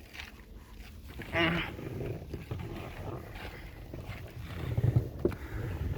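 Low, irregular rumbling and handling noise around a car door, with a brief pitched creak about a second and a half in.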